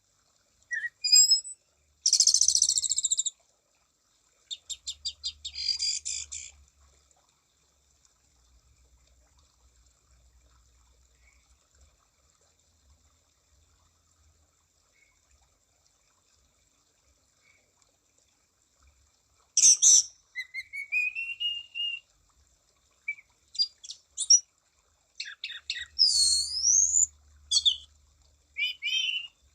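Anis cendana (orange-banded thrush) singing in loud bursts of rapid trills and quick high whistles. It goes quiet after about seven seconds and starts again about two-thirds of the way through with more sweeping, rising and falling whistles.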